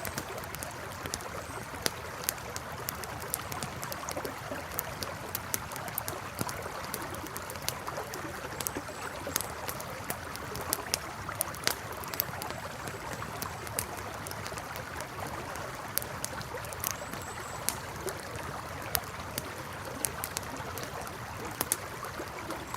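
Campfire crackling with frequent sharp, irregular pops over the steady rush of a flowing river.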